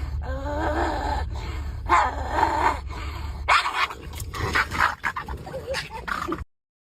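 A dog whining with wavering cries over a low hum, then sharper yelps and clicks from about halfway through; the sound cuts off abruptly near the end.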